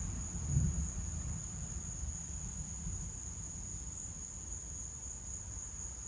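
Steady, high-pitched chorus of insects such as crickets, over a low rumble that swells briefly about half a second in.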